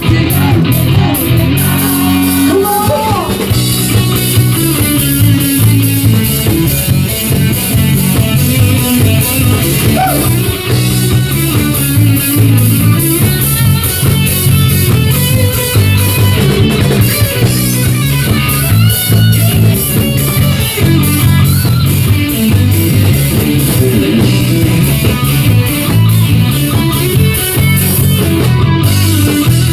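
Live rock band playing an instrumental stretch, guitar over a drum kit, with a steady beat.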